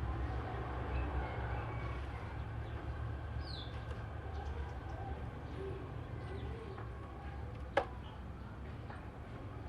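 Faint bird chirps and short calls over a steady low hum, with one quick downward-sliding note about three and a half seconds in. A single sharp click comes about eight seconds in.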